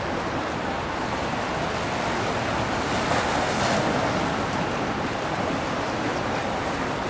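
Steady rushing of churned water with wind on the microphone, swelling briefly about three seconds in.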